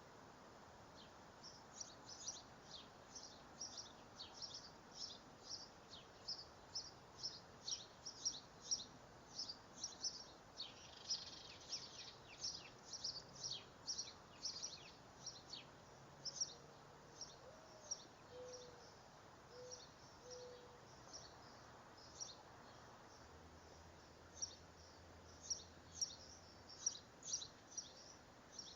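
Dark-eyed junco giving a long run of short, high chip notes, two or three a second, with a brief pause near the end before the chips start again.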